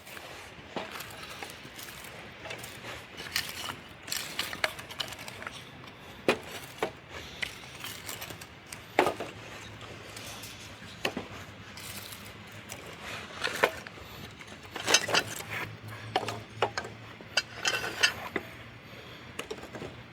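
Irregular sharp clicks and knocks, several a few seconds apart and a cluster near the end, over a faint steady background hum.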